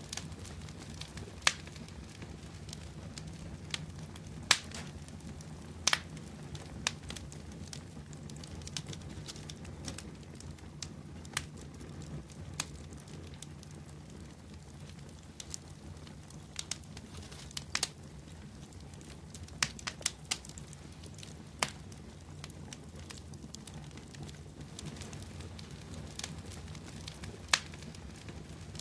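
Wood bonfire burning: a steady low rumble with sharp, irregular crackles and pops from the burning wood.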